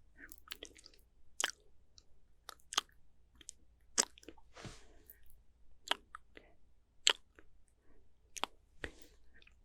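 Close-miked ASMR mouth sounds: a dozen or so wet clicks and smacks of lips and tongue, at irregular spacing, with a short breathy hiss about halfway through.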